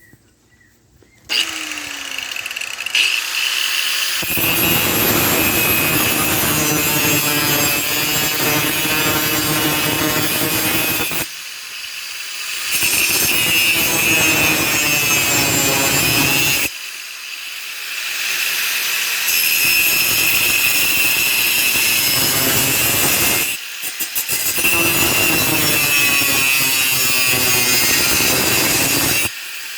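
Handheld rotary cut-off tool ('zip cut') cutting through a steel saw blade: a steady high whine with harsh grinding. It starts about a second in and lets up briefly three times before biting in again.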